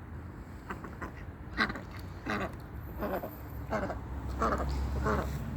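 Ducks quacking: about six short quacks, one every half second to a second. A low rumble grows near the end.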